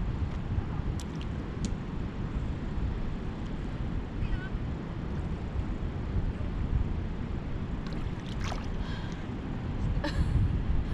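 Steady low rumble of wind buffeting the microphone, with a few faint high chirps over it.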